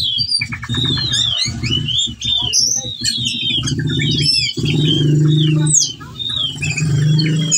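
Ciung batu (whistling thrush) singing a fast, unbroken run of chirps and whistled slurs, showing off its repertoire of mimicked calls. It is a male in breeding condition calling for a female. A low steady hum runs underneath and grows louder partway through.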